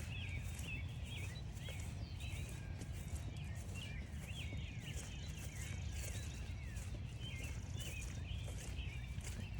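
Many small songbirds chirping and trilling at once in a busy chorus, over the crunch of footsteps on frost-stiffened grass and a steady low rumble.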